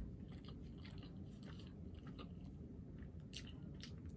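Close-up eating of a fried chicken sandwich: faint chewing with scattered crisp crunches of the fried breading, and a louder cluster of crunches near the end as a fresh bite is taken.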